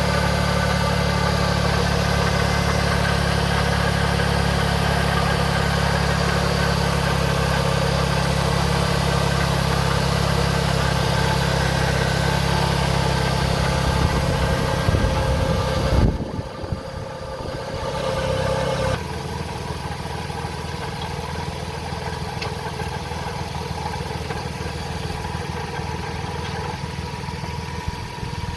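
Toyota Sienna's 3.3L V6 engine idling steadily. About 16 s in the sound drops off abruptly, and from about 19 s a quieter steady engine running sound continues.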